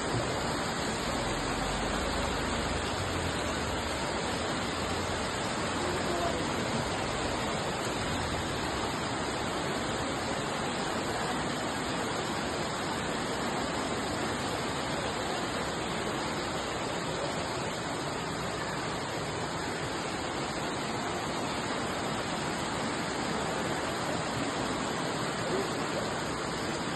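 Rushing floodwater of a swollen stream in spate, a steady, unbroken rush of water.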